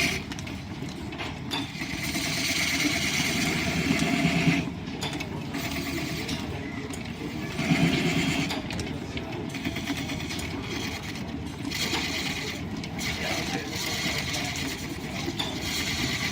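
Line-shaft-driven wood lathe running, its belts and pulleys turning, with a turning tool cutting the spinning wood in several louder stretches.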